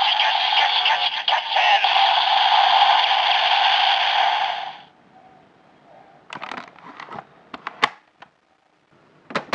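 Electronic sound effect from the DX Grease Blizzard Knuckle toy's small speaker: a loud rushing effect that cuts off about five seconds in, followed by a few sharp cracks in a quieter stretch.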